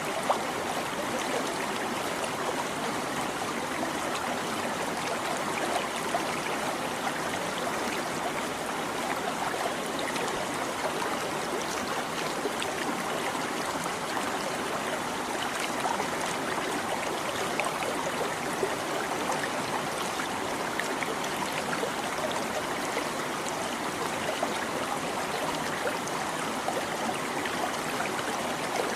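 A small stream babbling and trickling over stones, a steady flow with small splashes and gurgles through it.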